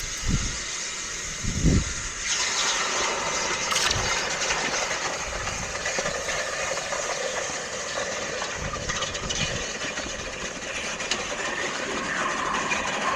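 Two low thumps, then about two seconds in a hot metal casting dunked in water starts a steady, loud sizzling hiss of boiling water and steam as it is quenched.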